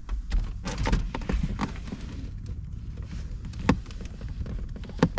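Irregular clicks and knocks of hand tools and car parts being handled during reassembly work, a few of them sharper than the rest, over a steady low rumble.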